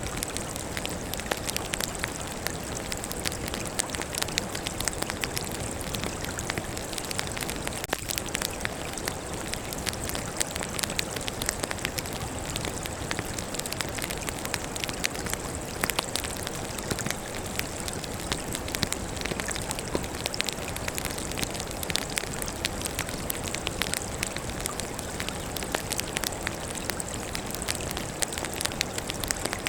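Wood fire burning with a steady hiss and dense, irregular crackling and popping of the burning logs.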